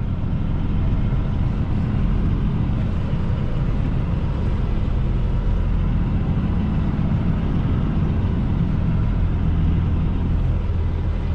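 Semi truck's diesel engine running at low, steady revs, a low even drone as the tractor-trailer creeps along slowly.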